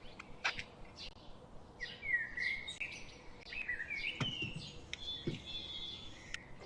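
Birds chirping in short, warbling phrases, with a few sharp clicks or knocks in between.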